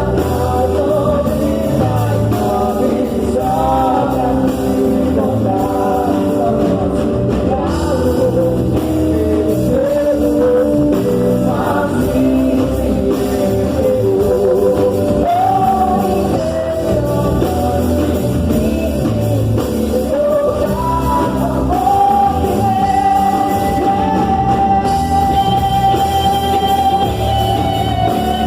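Live gospel praise music: singing voices over a band with bass and drums, one long held sung note from about two-thirds of the way in.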